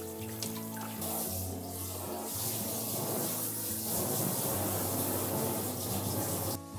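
Water running from a tap into a sink, stopping abruptly near the end, over background music.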